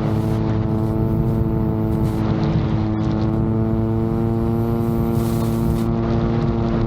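Innovtol-3 VTOL drone's propellers and motors running at a steady pitch, a constant multi-tone hum, with a low wind rumble on the microphone under it.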